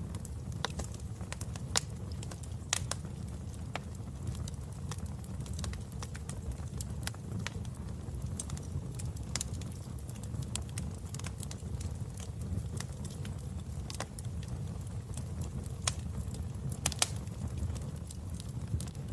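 Wood fire burning in a fireplace: irregular sharp crackles and pops over a steady low roar, with the loudest pop near the end.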